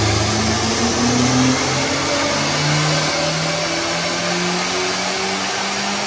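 Perodua Alza's 1.5-litre 3SZ-VE four-cylinder engine revving, its pitch climbing steadily over several seconds, then dropping back near the end.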